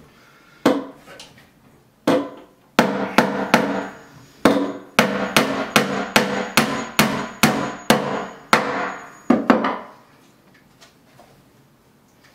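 Hammer blows, about eighteen of them: a few spaced strikes, then a quicker run of about three a second that stops nearly ten seconds in. Each blow rings briefly with a pitched tone.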